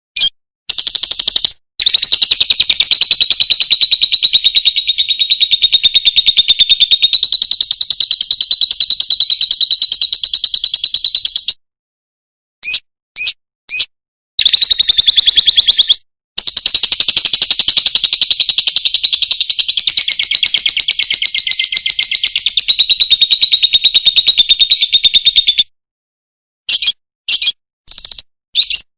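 Animal calls from a masteran recording: two long, very rapid, high-pitched buzzing trills of about ten seconds each, with short sharp chirps before, between and after them.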